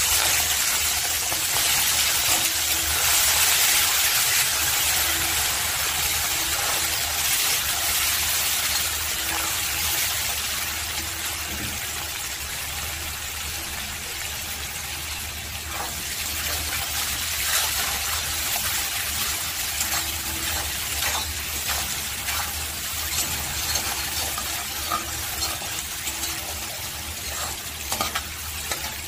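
Prawns sizzling in hot mustard oil in a metal wok, loudest just after they go into the oil and then settling to a steady frying hiss. A steel spatula scrapes and taps against the pan now and then.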